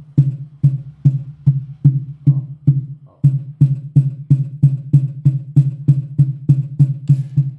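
A passive PA loudspeaker playing a repeating bass-drum beat, a little over two beats a second, with a short break about three seconds in. The bass is the test for a buzz from parts vibrating on the speaker's crossover board.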